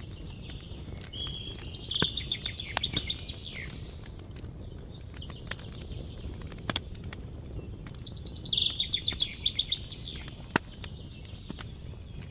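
Outdoor wood campfire crackling, with scattered sharp pops over a low steady rumble. A songbird sings two short trilled phrases over it, one about two seconds in and one about eight and a half seconds in, and these are the loudest sounds.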